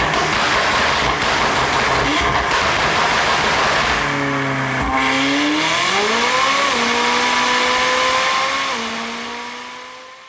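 McLaren 570S twin-turbo V8 running hard through a full aftermarket exhaust with catless downpipes: a loud, raspy exhaust note. About halfway through, the pitch rises and then holds steady, steps once near the end, and the sound fades away.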